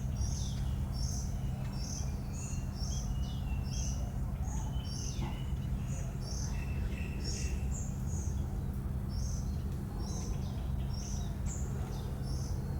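Birds chirping rapidly, short high-pitched chirps about two or three a second with a few lower calls mixed in, over a steady low hum.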